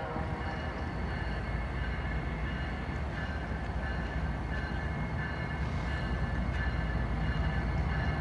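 BNSF freight train rolling slowly past: a steady low rumble with faint thin steady tones above it.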